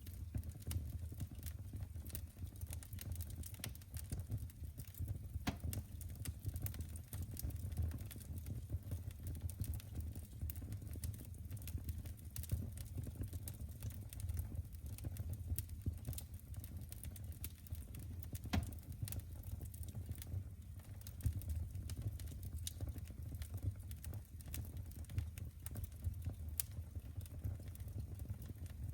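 Wood fire crackling in a fireplace: a steady stream of small snaps over a low rumble of flames, with a few louder pops.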